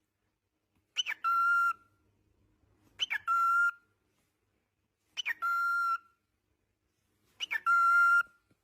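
Pet parrot whistling the same call four times, about two seconds apart: each a quick falling chirp followed by a held steady note.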